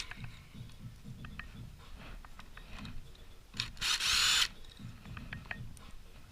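Power driver spinning out one of the motorcycle's clutch spring bolts in a single burst of about a second, a little past the middle, with a motor whine. Light clicks of small metal parts being handled before and after it.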